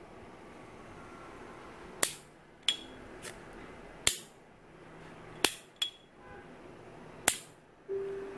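Metal lid of a Dupont-style Hong Kong copy lighter being flicked open and snapped shut several times. Each opening gives the sharp, bright, ringing ping this kind of lighter is known for, four loud ones in all, with softer clicks between.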